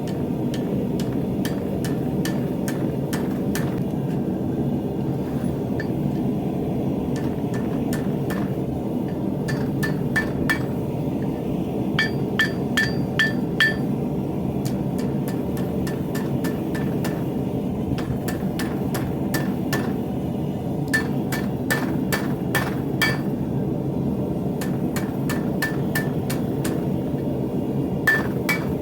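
Hand hammer striking steel on an anvil in irregular runs of quick blows, many with a short metallic ring, over a steady low roar.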